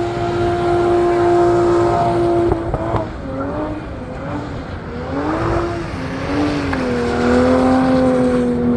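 Drift car engine revving hard during a drift run: the pitch is held high and steady for a couple of seconds, then swings up and down with the throttle, then settles into a steady lower drone near the end.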